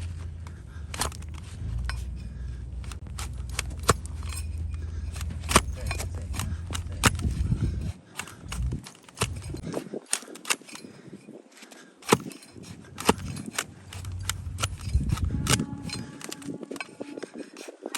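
Irregular sharp clicks and knocks of hoof-trimming tools working a donkey's hoof. A low steady hum runs underneath and stops about eight seconds in.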